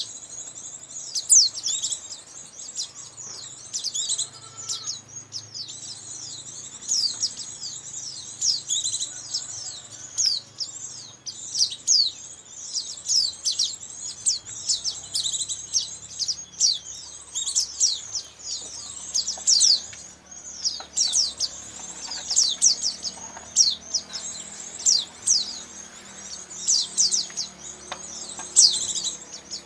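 White-eyes (pleci) twittering: a dense, continuous stream of rapid, high-pitched chirps, played as a lure call to draw in wild white-eyes.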